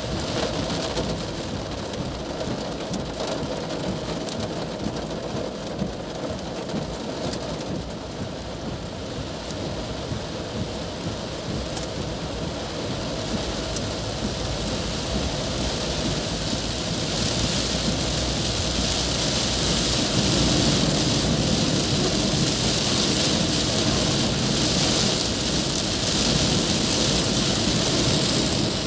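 Heavy rain drumming on a car's roof and windscreen, heard from inside the moving car on a wet road; the downpour grows louder about two-thirds of the way through.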